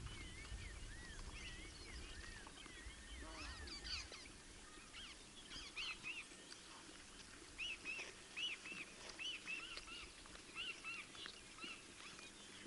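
Wild birds calling, many short high chirps, with a quick run of repeated chirps in the second half. A low rumble sits underneath for the first few seconds.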